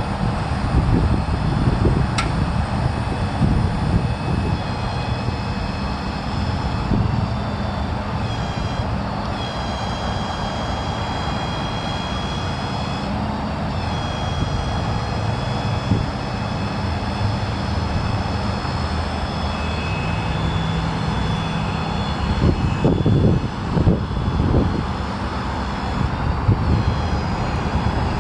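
Ford F550's 6.7-litre turbo diesel running steadily with a low rumble. From about eight seconds in, a high steady whine from the hydraulics joins it, changing pitch a few times, with some rougher rumbling bursts near the end.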